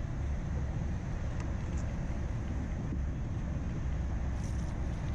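Wind buffeting the camera microphone: a steady low rumble with an even hiss above it.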